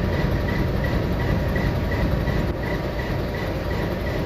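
Diesel freight locomotive running with a steady low rumble. A faint, high pulsing chirp repeats about two and a half times a second over it.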